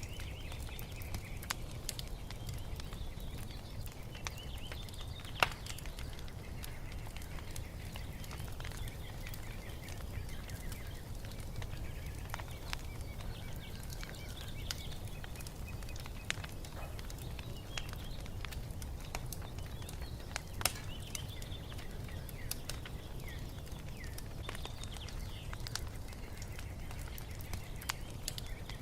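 Wood fire crackling, with scattered sharp pops (the loudest about five and a half seconds in) over a steady low rumble, while small birds chirp and twitter throughout.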